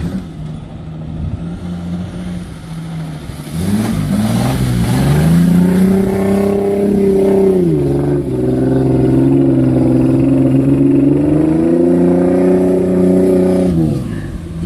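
Toyota Land Cruiser FJ40's engine revving as it drives through a flooded, muddy track. The pitch climbs about four seconds in, drops back near eight seconds, rises again and falls away near the end.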